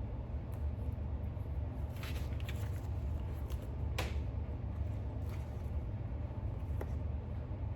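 Soft rustling of book pages being handled, a couple of seconds in, and a sharp single click about four seconds in, over a steady low hum of room noise.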